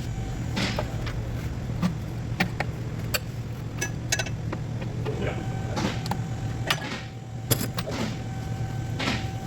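Scattered sharp clicks and knocks of hand tools working on a car engine, over a steady low hum.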